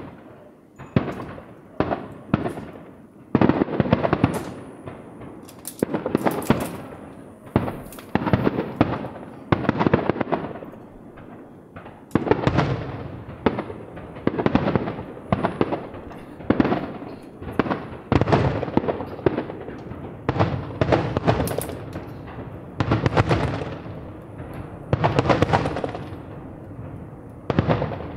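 Aerial fireworks bursting in rapid succession: a sharp bang about once or twice a second, each fading over a second or so, with no real pause between them.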